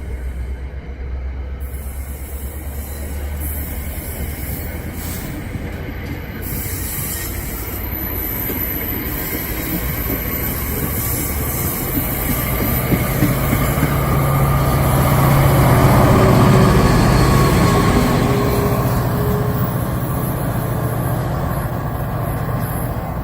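Diesel-hauled NJ Transit commuter train going by at the station, the noise building to a peak about two-thirds of the way through and then easing off, with a steady low engine hum and some wheel squeal.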